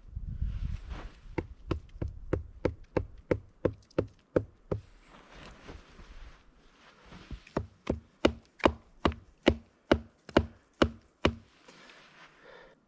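Sharp knocks on wood, about three a second, in two runs with a pause of a couple of seconds between them.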